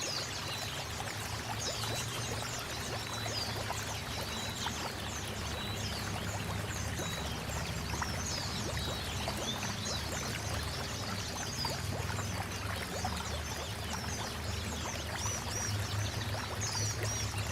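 Many short, high chirps and twitters of pleci (white-eye) birds, coming in quick runs throughout, over a steady sound of running, pouring water.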